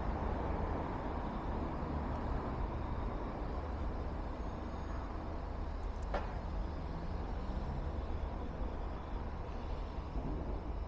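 Steady road traffic noise with a low wind rumble on the microphone, and a single brief click about six seconds in.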